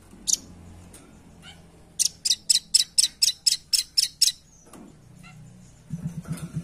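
Velvet-fronted nuthatch (rambatan paruh merah) calling: one sharp high note, then a fast run of about ten sharp, clear chips, roughly four a second. Near the end a low buzzing rattle begins.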